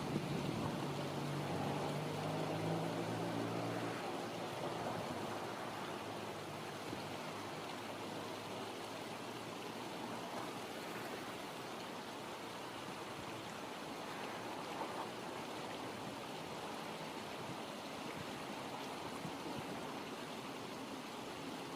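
Steady rushing of flowing river water. A low hum with overtones fades out over the first few seconds.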